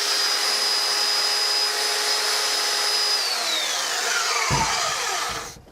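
Electric power tool motor running at a steady high whine, then switched off about three seconds in and winding down in pitch to a stop.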